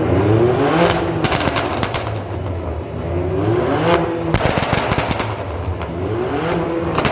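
Car engine revving hard three times, each rev rising in pitch and followed by a rapid string of loud exhaust pops and bangs as the throttle is released, over a low engine rumble.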